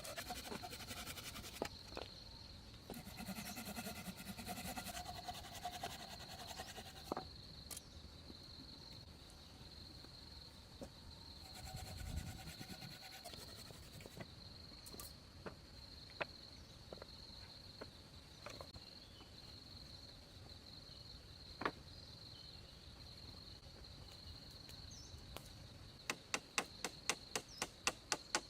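Crickets trilling steadily in a high, even tone, with scattered sharp knocks and a fast run of about a dozen clicks near the end.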